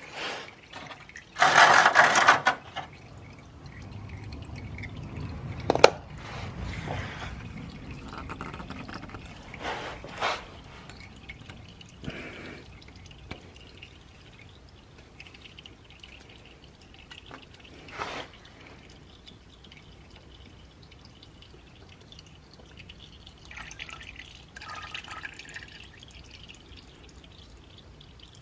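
Engine oil dripping and dribbling into a drain pan as the oil filter is unscrewed, with a loud rush of noise about two seconds in and a few sharp clicks and knocks from handling the filter and pan.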